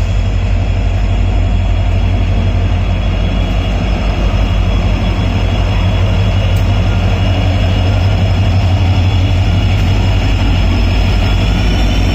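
Train running along the track: a loud, steady low rumble with faint high-pitched wheel tones above it.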